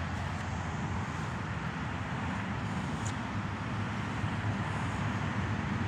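Steady outdoor background noise: a low, even rumble with hiss and no distinct events.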